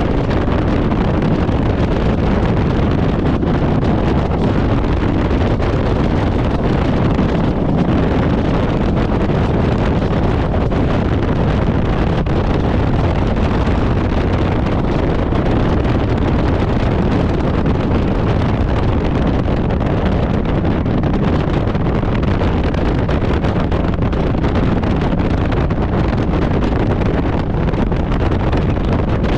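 Harley-Davidson Road Glide's V-twin engine running steadily while riding at speed, mixed with heavy wind noise on the microphone.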